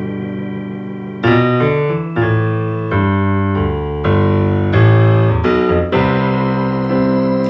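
Instrumental music: a keyboard with a piano sound playing a slow ballad's chords. A held chord fades for about a second, then fresh chords are struck roughly every half second to a second.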